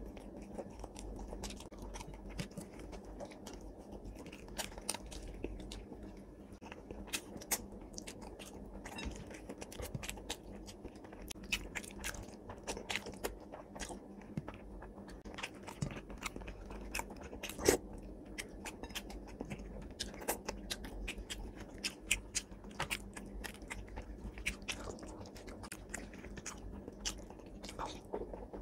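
A person eating a curried fish head with rice by hand, chewing and biting: a steady stream of short, wet mouth clicks and smacks, with one louder click about two-thirds of the way through.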